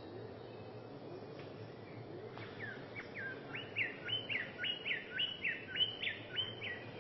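A bird singing a fast run of repeated whistled notes, each one jumping up sharply and then sliding down, about three a second. The run starts about two and a half seconds in and grows louder toward its end.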